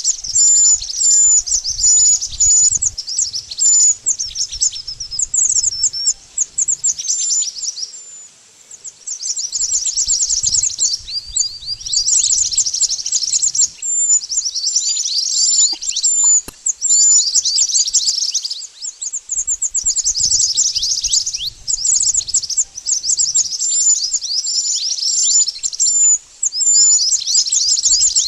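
Burung mantenan birdsong used as a luring (pikat) call: dense, high-pitched twittering chirps in repeated bursts, mixed with runs of short, sharp repeated notes.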